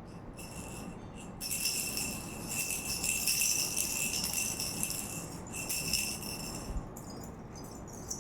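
Jingling toy rattle with bells, shaken. It starts in short jingles, then rattles steadily from about a second and a half in for about five seconds with a brief break, and thins to scattered jingles near the end.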